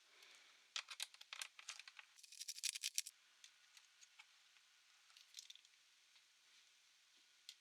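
Small hard parts being handled at close range: a quick run of sharp clicks and scraping in the first three seconds, then a few scattered faint ticks.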